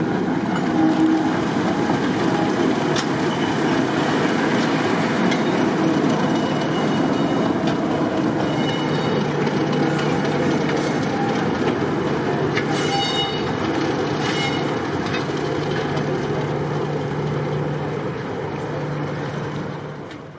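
Diesel-hauled heritage train running, with the rumble of the wheels on the rails and a steady low engine note that comes up about halfway through. There are a few brief high squeals, and the sound fades out near the end.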